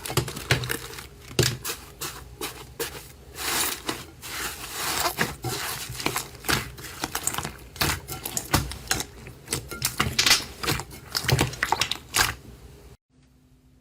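Rapid, irregular crisp clicking and crackling from a material being handled, stopping abruptly about thirteen seconds in; a faint steady hum follows.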